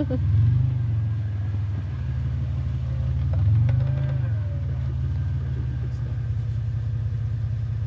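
Vehicle engine running steadily at low revs, swelling slightly twice.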